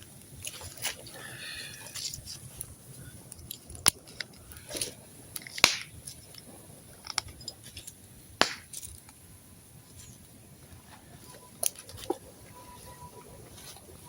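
Wood campfire burning, crackling, with irregular sharp pops and snaps from the burning wood, a handful of them much louder than the rest.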